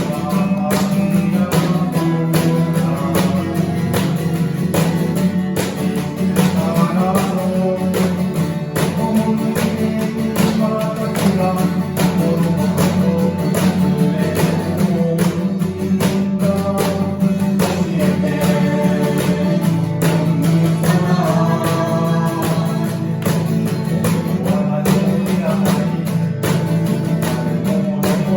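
Band music led by a strummed acoustic guitar, with a steady low part underneath and a moving melody line above.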